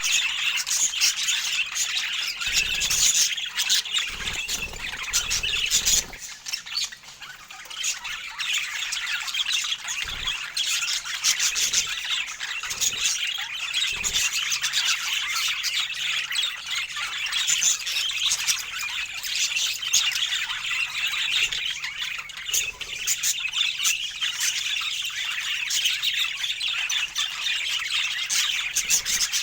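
Several budgerigars chattering continuously, a dense mix of quick chirps, warbles and squawks, with a few low thumps in the first few seconds.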